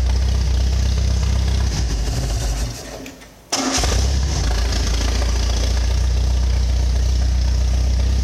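Mercruiser 140 hp Chevrolet 4-cylinder marine engine running loud and steady, dying away about three seconds in, then suddenly running again at full strength: the engine being started and brought up a couple of times to show it starts right up.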